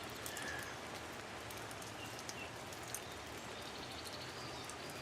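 Steady rain falling, with scattered sharp ticks of drops.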